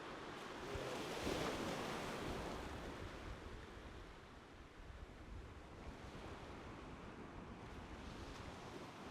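Ocean surf: a wave breaks about a second in and its wash slowly fades to a steady, low rush.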